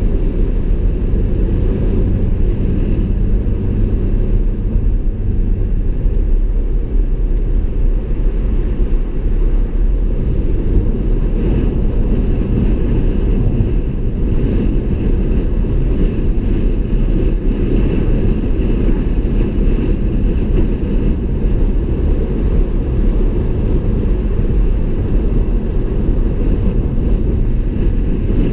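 Car driving along a road: a steady, loud rumble of tyres and engine with no break, with a faint engine hum showing in the first few seconds.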